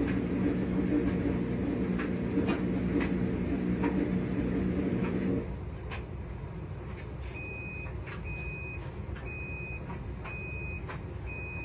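RCA RPW302 portable washing machine's motor humming, with scattered clicks, then cutting off abruptly about five seconds in. A couple of seconds later the washer beeps steadily about once a second, signalling that the cycle has finished.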